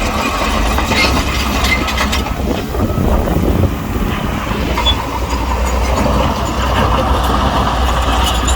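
Heavy diesel engine of a Shantui bulldozer running steadily, with sharp metallic clanks in the first couple of seconds.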